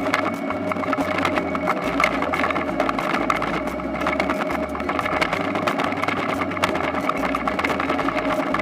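Toyonoki potato harvester running: a steady engine note with constant clattering and rattling from the machine.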